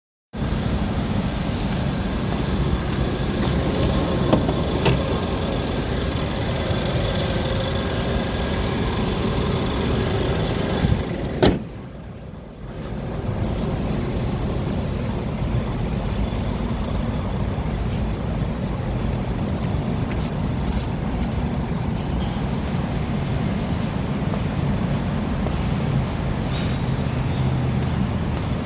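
Steady motor-vehicle noise, a low rumble with a broad hiss over it, broken by a sharp click about eleven seconds in and a short quieter stretch after it.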